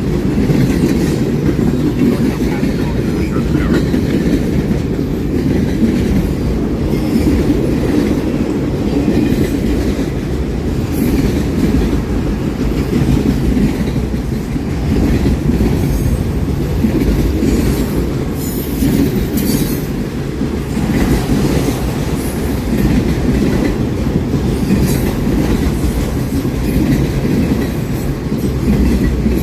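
Train cars rolling past in a steady, loud rumble with the clickety-clack of wheels over the rails, and a few brief high wheel squeals.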